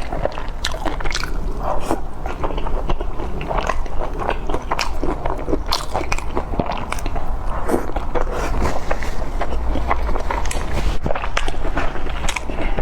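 Close-miked chewing of a steamed dumpling: a dense, irregular run of wet mouth clicks and smacks.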